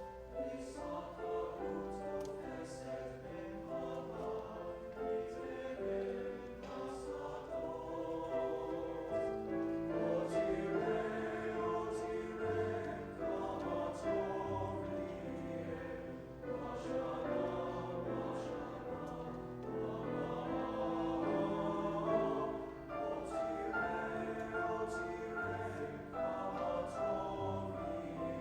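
A choir singing in harmony, several voice parts holding and moving between sustained notes.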